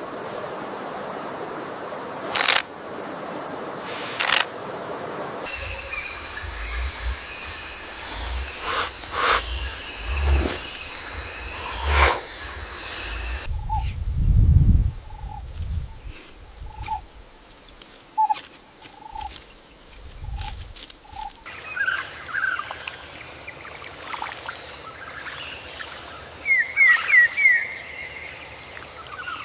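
Wild animal and nature ambience that changes every several seconds: a few sharp loud calls, a steady high-pitched hiss with low rumbles, a series of short repeated calls, and a quick run of chirps near the end.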